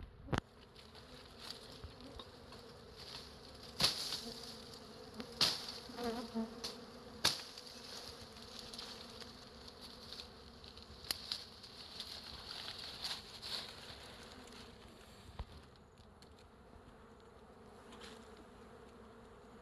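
A wild honeybee colony buzzing steadily, a swarm of bees humming around the hive, with a few sharp taps or knocks scattered through it.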